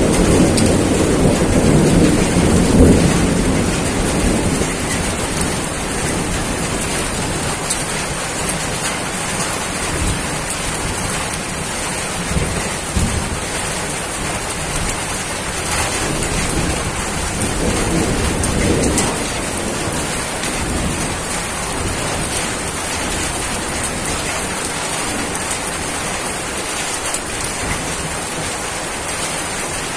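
Heavy rain falling steadily with a low rumble of thunder in the first few seconds that dies away, and a fainter rumble later on.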